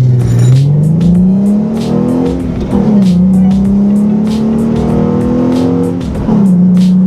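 Ford Mustang V6 fitted with a Roush cold air intake accelerating hard: the revs climb through a gear, drop sharply at an upshift a little under three seconds in, climb again and drop at a second upshift near the end. The engine note is the throatier, more audible intake sound the new cold air intake gives.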